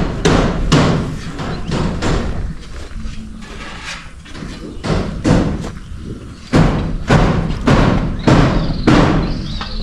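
Hammer blows ringing on a roof under construction: a run of hard knocks roughly every half second, with a lull in the middle.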